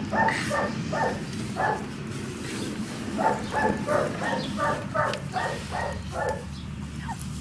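A dog barking in quick repeated barks, about three a second: a short run at the start, then a longer run after a pause of about a second and a half.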